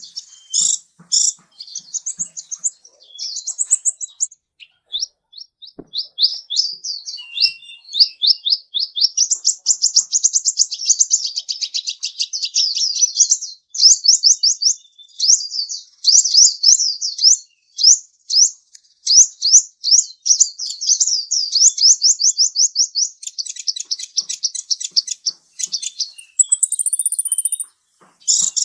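Bird chirping in long, fast runs of quick, high, sliding notes, almost without pause, with a short rising whistle near the end.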